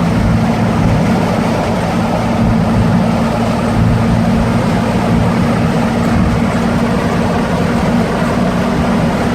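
1955 Fargo truck's engine pulling steadily at highway speed, around 60 mph, with steady road and tyre noise from a rough highway.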